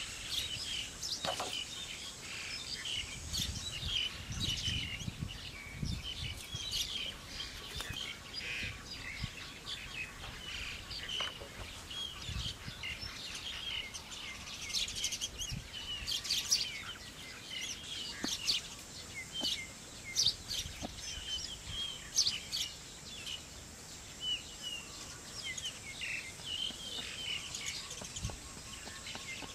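Forest birds chirping and calling over and over, over a steady high-pitched tone, with a few scattered knocks and low thuds.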